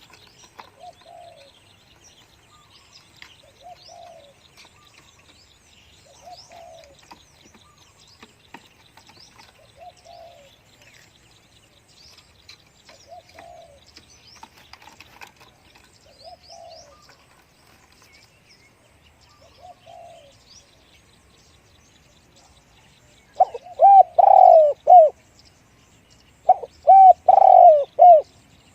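Spotted doves cooing: faint coo phrases repeat every two to three seconds, then two loud, close coo phrases of several notes each come near the end. Small birds chirp in the background.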